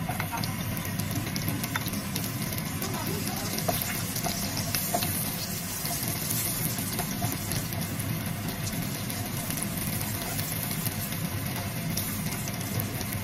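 Sliced garlic sizzling in hot oil in a nonstick pan, a steady frying hiss, with the spatula scraping and tapping now and then as the garlic is stirred.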